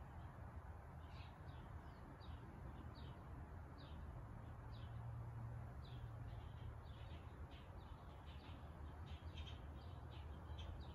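Faint, short bird chirps repeating irregularly, sparse at first and coming faster near the end, over a low steady hum.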